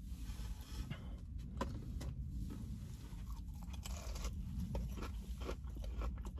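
A crispy fried chicken strip being bitten into and chewed, with irregular crunches of the breading.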